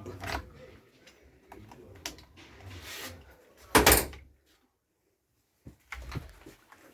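Handling noises: scattered knocks and scrapes, with one louder rasping noise about four seconds in and a short quiet gap after it.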